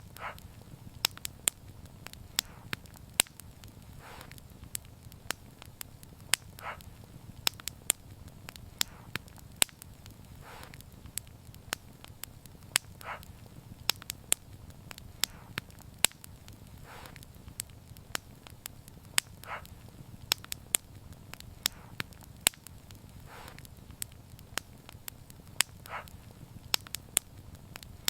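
Wood fire crackling: many sharp, irregular pops and snaps over a low, steady rumble of burning, with a softer short sound every three seconds or so.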